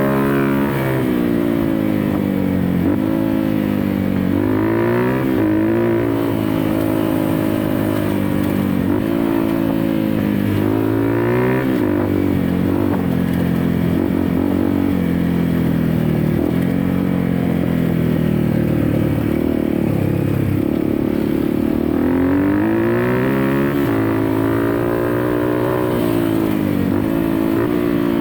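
Off-road dirt bike engine ridden hard, its pitch climbing as the throttle is opened and dropping as it is shut off, over and over every couple of seconds.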